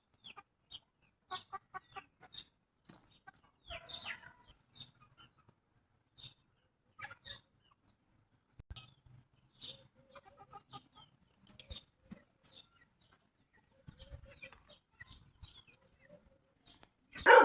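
Chickens clucking: many short, scattered calls from several birds, then one much louder call right at the end.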